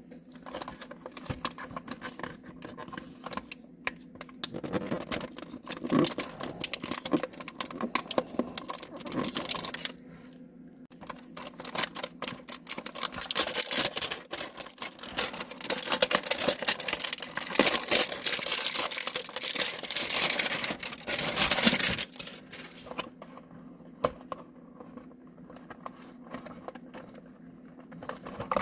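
Toy-car packaging being opened and handled by hand: a long run of crinkling, tearing and clicking, busiest and loudest in the middle, then quieter scattered clicks near the end.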